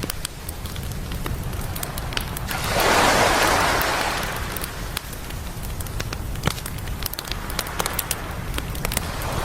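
Campfire crackling and popping throughout, with a single ocean wave swelling and washing in about three seconds in, then fading. A steady low surf rumble runs underneath.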